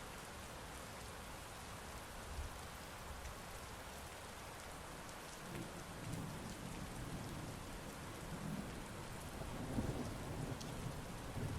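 Heavy rain falling in a steady hiss. Low rolling thunder joins about halfway through and grows louder toward the end.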